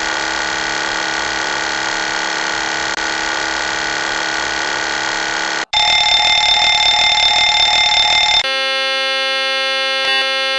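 Boeing 737 MAX cockpit aural warnings: three different steady electronic warning tones play one after another. The sound switches abruptly about six seconds in and again about eight and a half seconds in, and the middle tone is the loudest.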